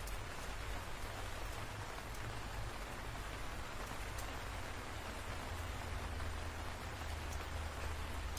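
Steady rain falling, with scattered sharper drop ticks and a low, steady rumble underneath.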